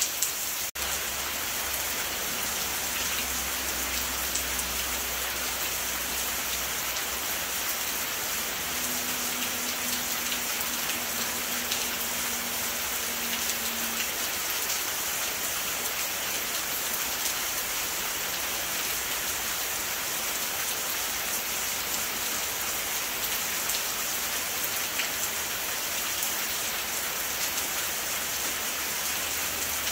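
Steady rain falling, an even hiss of drops on surfaces, with a sharp click and brief dropout under a second in and a faint low hum during the first few seconds.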